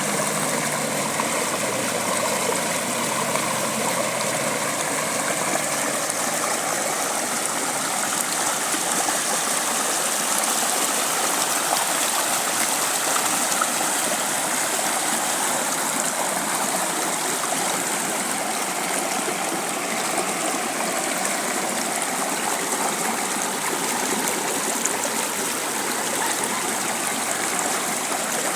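Water of a stream running over rocks, a steady rushing and splashing that keeps on evenly.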